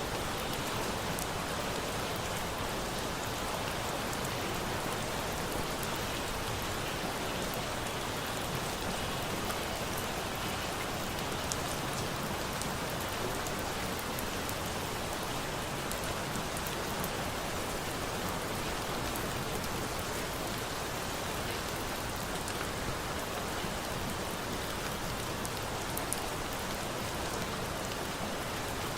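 Steady rain falling, an even hiss with no change in level, with scattered faint ticks.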